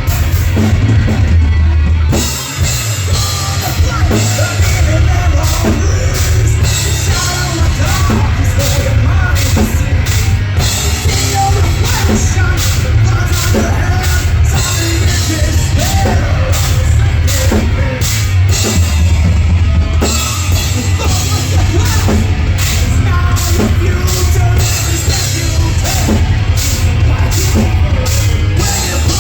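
Heavy metal band playing live and loud, with distorted guitars, bass and a pounding drum kit; the music dips briefly about two seconds in, then carries on.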